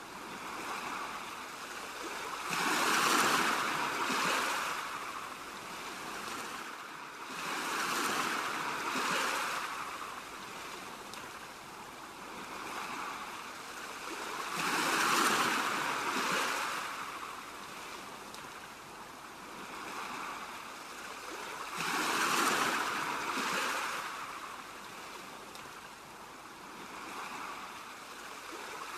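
Ocean surf: waves washing in and drawing back, with a larger wave swelling up every six or seven seconds, four in all.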